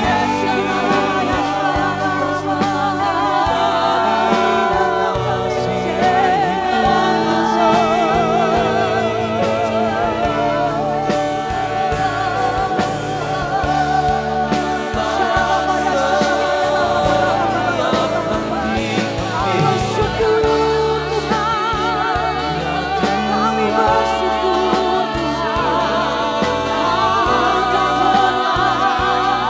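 Worship band playing a slow gospel praise song with singers, voices held in long wavering notes over sustained keyboard and bass.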